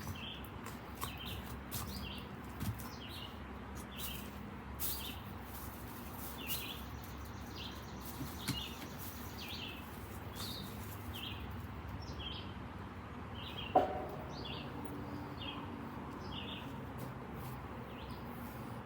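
A bird chirping over and over, one short high note about every second. Scattered light snaps and crackles are heard under it, with one louder snap about fourteen seconds in, fitting a wood fire in a fire pit.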